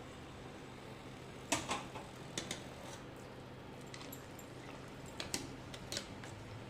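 Scattered light clicks and taps of kitchen utensils, about nine spread out, over a steady low hum.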